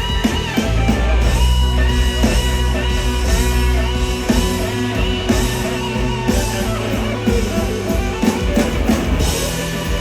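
Live blues-rock band playing an instrumental break: an electric guitar lead holding and bending notes over drums and bass.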